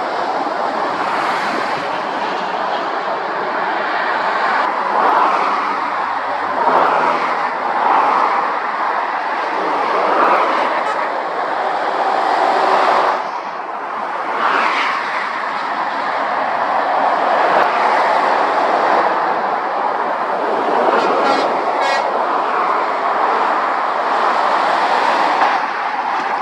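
Steady motorway traffic: lorries and cars passing at speed, the tyre and engine noise swelling and easing as each vehicle goes by, with a lorry's engine note heard briefly about a third of the way in.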